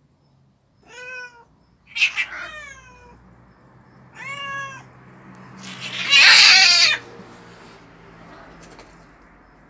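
Stray cats yowling at each other in a fight: four drawn-out, wavering calls, the last and loudest, about six seconds in, a harsh screech.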